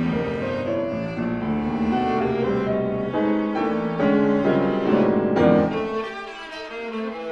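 Viola playing a melody with piano accompaniment, the notes moving every fraction of a second; the low piano notes drop away near the end.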